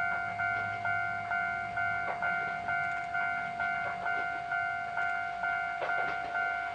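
Railway level-crossing warning bell ringing steadily, about two strikes a second. From about two seconds in, scattered clicks join it as the KiHa 52 + KiHa 28 diesel railcars approach over the rails.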